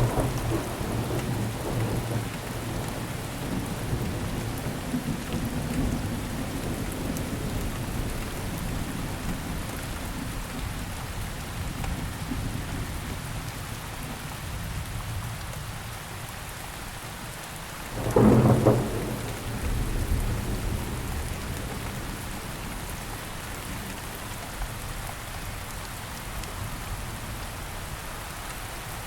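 Steady rain falling in a thunderstorm, with low rumbling thunder fading early on. About two-thirds of the way through comes a sudden loud thunderclap, followed by rumbling.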